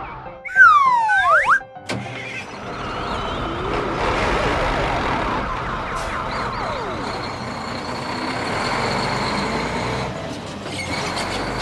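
Cartoon sound effects: loud falling, whistle-like glides about half a second in, then a busy mix of vehicle and siren-like effects with some music.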